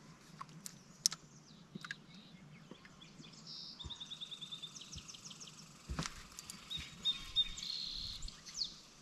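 Small birds chirping and trilling in quick repeated notes, over a quiet outdoor background. There are a few sharp clicks in the first second or so, and a knock about six seconds in.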